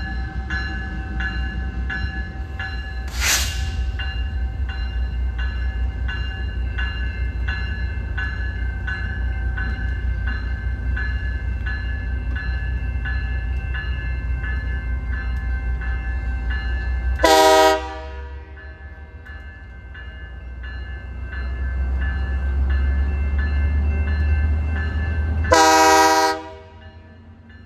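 Diesel switching locomotive with its bell ringing about twice a second over the engine's low rumble, and a brief hiss about three seconds in. The bell stops after about seventeen seconds and the horn gives two short blasts some eight seconds apart, the engine growing louder between them.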